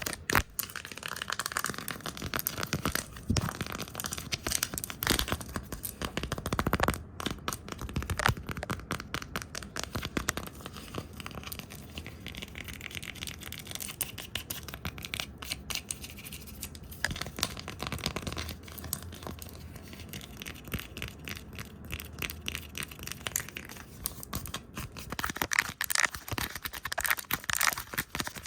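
Fast, close-miked ASMR brushing and tapping: a dense run of quick scratchy strokes and taps, busier near the start and again near the end.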